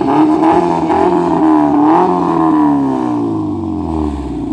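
Car engine just started up, revved up and down in the first couple of seconds, then dropping back and quietening toward idle near the end.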